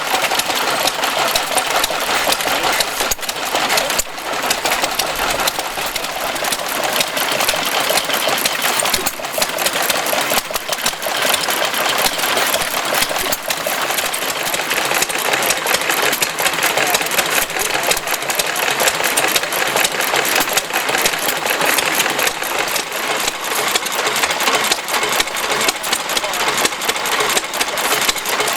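Small stationary engine running steadily, with a fast, even mechanical clatter.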